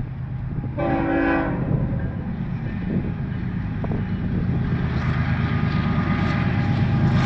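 A freight locomotive horn sounds one short blast about a second in, over the low rumble of the train, which grows steadily louder as it approaches.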